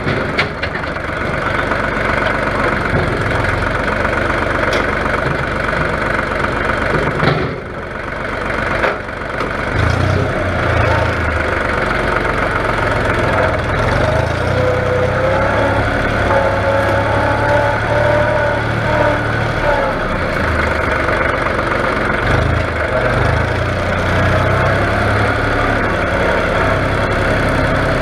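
Diesel tractor engine running steadily, with a higher wavering whine for several seconds in the middle.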